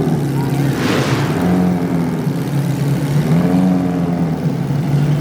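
Garden pulling tractor engine running and revving, its pitch rising and falling slightly, with a short hiss about a second in.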